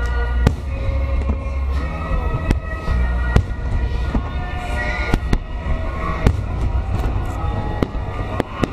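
Aerial fireworks bursting in quick succession, about a dozen sharp bangs half a second to a second apart, over a continuous low rumble of booms.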